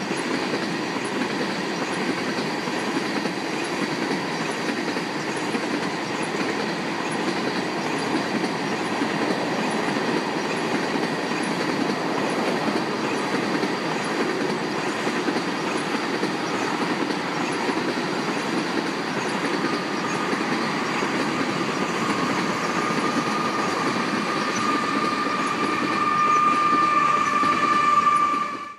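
A long freight train of loaded crude oil tank cars rolling past: a steady rumble and clatter of wheels on the rails. Over the last few seconds a steady high whine grows louder as a CSX diesel locomotive comes by.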